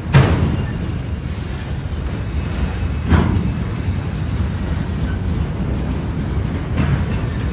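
Freight train of autorack cars rolling past, a steady low rumble broken by three sharp clunks about three to four seconds apart, the first the loudest.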